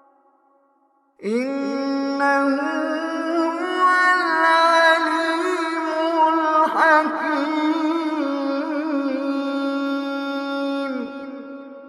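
A reciter chanting the Quran in one long, melodic phrase. The voice comes in about a second in, holds its pitch with ornamented turns, and fades out near the end.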